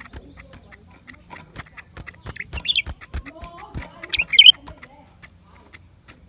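Blue-winged leafbird calling: two short bursts of sharp, squeaky notes, the second louder, with faint scattered clicks in the recording.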